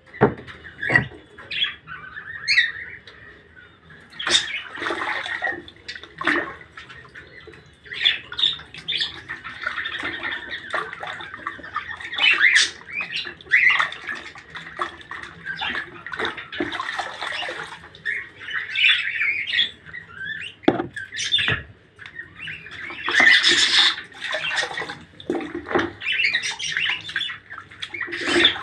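Pet birds chirping and squawking, with many short, busy calls throughout and scattered sharp clicks among them.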